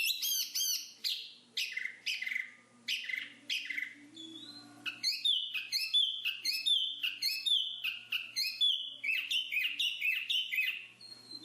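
Black-capped babbler singing: a rapid series of short whistled notes, first falling chirps, then from about five seconds in a quicker run of notes that rise and fall.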